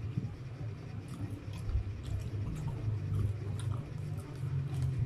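A person chewing food with the mouth closed, with scattered small clicks of mouth noise, over a steady low hum.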